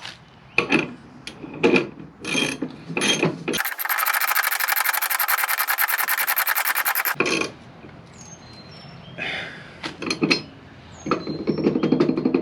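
Ratchet wrench clicking very fast for about three and a half seconds in the middle, turning a bolt on a riding-mower deck spindle. Separate metal knocks and clinks of tools and parts come before and after.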